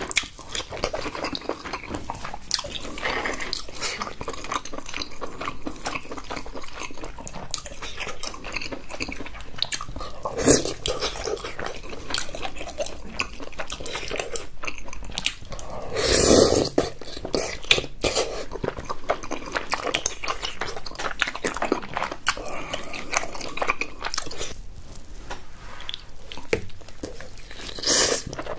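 Close-miked chewing and biting: wet mouth and smacking sounds of a person eating king crab leg meat and saucy tteokbokki rice cakes, with a few louder mouthfuls about ten and sixteen seconds in and near the end.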